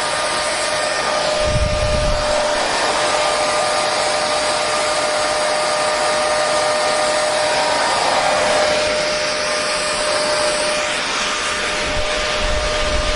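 Hair dryer running steadily: a continuous rush of blown air with a constant motor whine. There are brief low rumbles about a second and a half in and again near the end.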